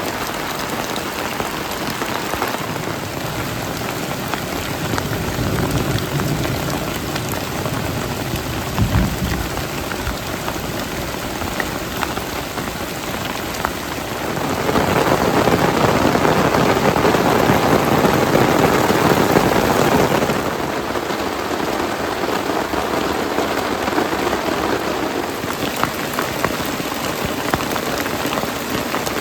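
Heavy rain pouring steadily in a storm, swelling louder for several seconds around the middle, with a low rumble and a knock about a third of the way in.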